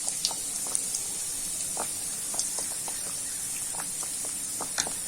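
Breadcrumb-coated bread and cheese pieces deep-frying in oil at medium heat: a steady sizzling hiss with scattered small pops and crackles.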